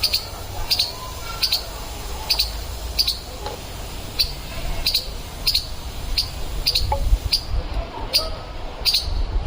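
A squirrel giving its alarm chirp over and over, one short sharp call about every three-quarters of a second, in a steady unbroken rhythm.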